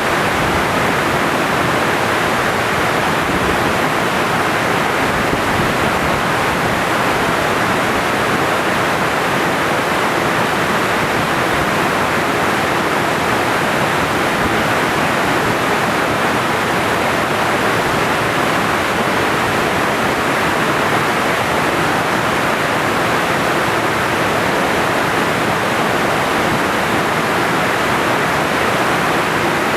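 Tsuganeotoshi Falls pouring steadily: a constant, even rush of falling water.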